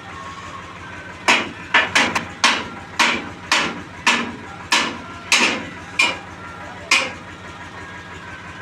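About a dozen hammer blows on metal, irregularly spaced, each ringing briefly. A tractor engine idles steadily underneath.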